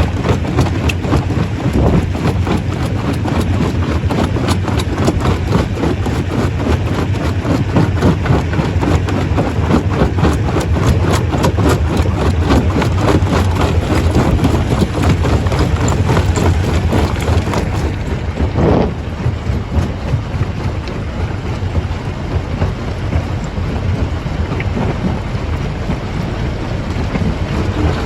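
Stone crusher running under load: a steady deep hum of the machinery under a dense, continuous clatter and cracking of rock being broken. The cracking thins a little about two-thirds of the way through.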